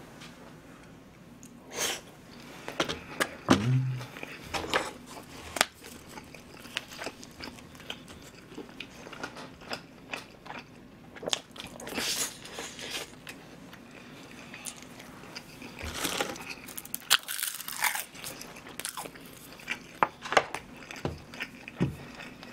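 Close-miked eating sounds of a person biting and chewing mouthfuls of tteok-galbi, a minced-meat patty wrapped around rice cake, with irregular crunchy, crackly clicks throughout.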